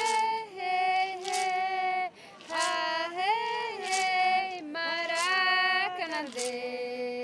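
A single high voice singing a slow unaccompanied song in long held notes, with a few short breaths between phrases.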